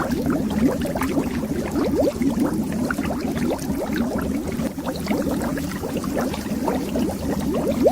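Continuous stream of bubbles rising underwater, many quick blips that each rise in pitch, over a low rumble.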